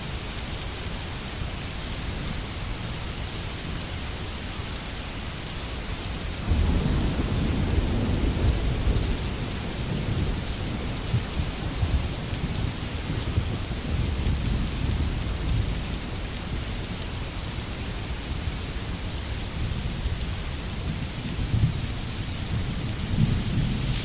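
Steady heavy rain, with a low roll of thunder that swells about six seconds in and rumbles on in further swells later.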